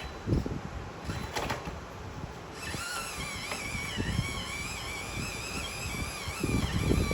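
Small electric motor and gearbox of an RC car whining steadily, starting about three seconds in, with a slight waver in pitch. Low thumps and rumble run under it.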